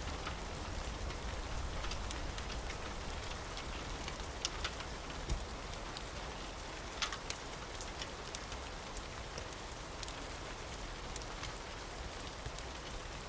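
Steady rain falling, an even hiss with scattered sharp drip-like clicks throughout.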